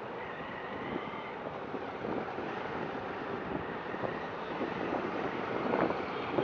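Street traffic ambience heard from a moving motorcycle, with wind on the microphone. A faint high tone sounds briefly near the start, and a few short knocks come near the end.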